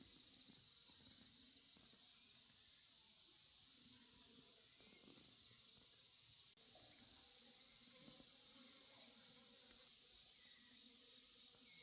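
Faint chirping of insects: short pulsed trills, high-pitched, repeating every second or two over low background hiss.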